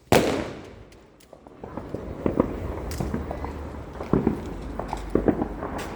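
A firework bursts with a loud bang right at the start, its echo fading away over about a second. After that comes lower outdoor background noise with scattered faint pops and crackles.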